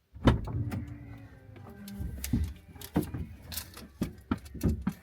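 Clicks and knocks of a vehicle's interior and doors being handled, with a small electric motor whining and falling slowly in pitch for about a second and a half near the start.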